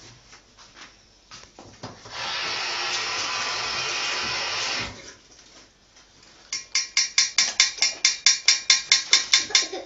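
Parrot calling in a rapid series of short, pitched chirps, about six a second, through the last three seconds. Before that, a steady hiss lasts about two and a half seconds, with faint scattered clicks around it.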